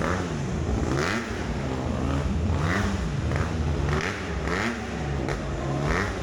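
Motorcycle engine revving up and down over and over, its pitch climbing and dropping about once a second.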